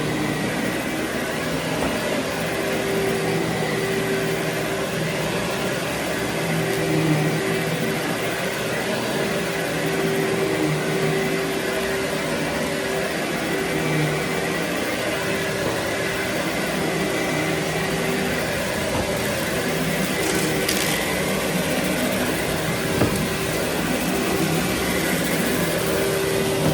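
Vacuum cleaner running steadily: a continuous motor drone with a steady whine. There is a brief higher hiss about two-thirds of the way through.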